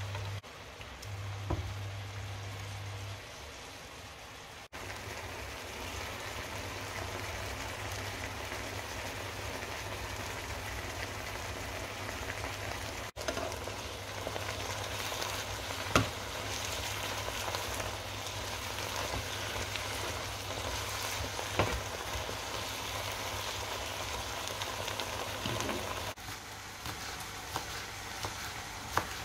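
Sliced mushrooms and onion frying in a pan with a steady sizzling hiss, with a couple of sharp knocks of a spatula against the pan. Near the end come a few knife chops on a wooden cutting board.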